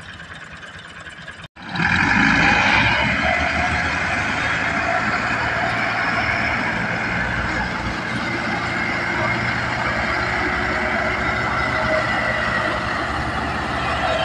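Tractor diesel engine running loud and steady, its low pulsing firing under a dense wash of noise; the sound cuts in abruptly about a second and a half in.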